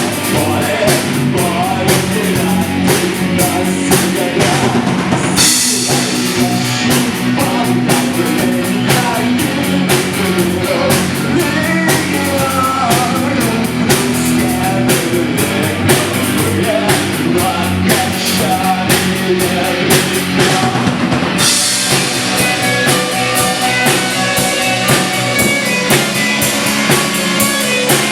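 Live rock band playing: drum kit with cymbals and distorted electric guitars, a wavering melodic line running over the top.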